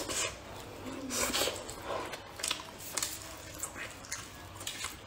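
Close-up chewing and lip-smacking on a fried corn glutinous rice cake: a run of short wet smacks and clicks, with a louder burst about a second in.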